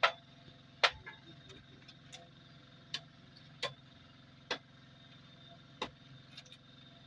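Caterpillar 3306 diesel engine running steadily with a low hum, with sharp clacks or knocks at uneven intervals of about a second.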